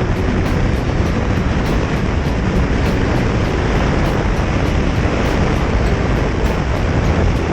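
Steady wind rush and road noise from a motorcycle on the move.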